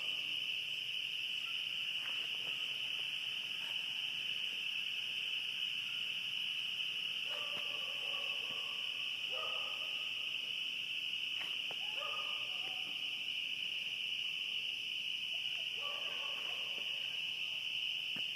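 Dense chorus of spring peepers: many overlapping high, shrill peeps merging into one steady ringing, about 70 decibels and almost deafening. Four fainter, lower-pitched calls of about a second each sound over it from about midway on.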